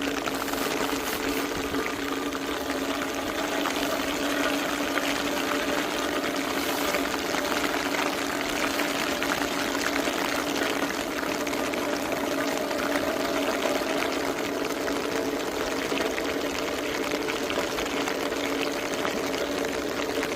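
Heavy rain falling, a steady dense hiss of many drops, over a steady low hum.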